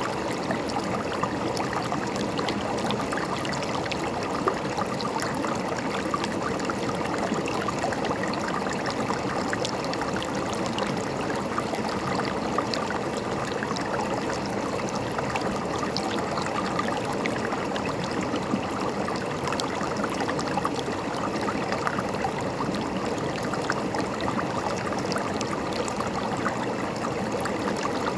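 River water running and gurgling over rocks, a steady rush of flowing water with many small splashes and droplet ticks.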